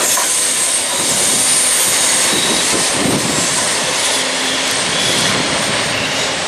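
Class 317 electric multiple unit running past at speed: a loud, steady rush of wheels on rail and moving air that drops away near the end as the train recedes.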